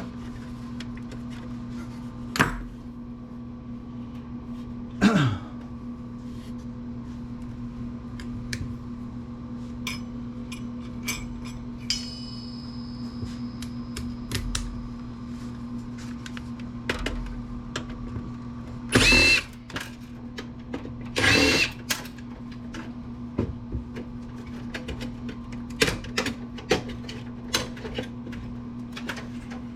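Power screwdriver running in two short bursts a couple of seconds apart while a computer case is taken apart, amid small clicks and knocks of screws and metal parts being handled, over a steady low hum.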